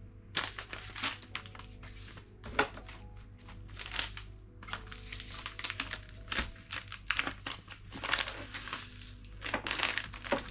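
Crinkling and rustling of packaging being handled, in many short, irregular scratchy bursts, over soft background music.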